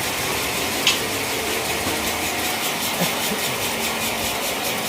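Sawmill machinery running steadily at idle, an even mechanical noise with one short click about a second in.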